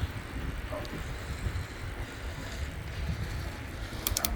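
Low, uneven rumble of a bicycle being ridden over the road, with wind on the microphone, and a short cluster of sharp clicks near the end.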